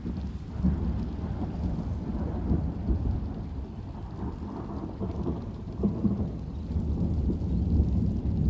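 Thunder rumbling, a long rolling rumble that swells up just as it begins and goes on throughout, over steady heavy rain.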